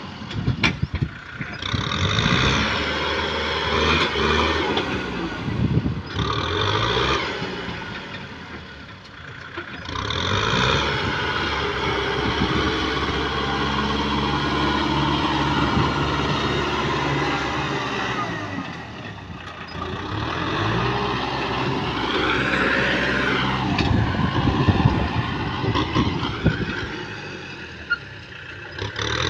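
Kubota M6040 tractor's diesel engine running, its speed rising and falling several times.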